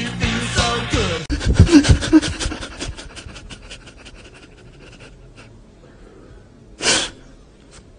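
A man sobbing: loud heaving gasps at first, then quick ragged breaths that fade, and one sharp sob or sniff near the end.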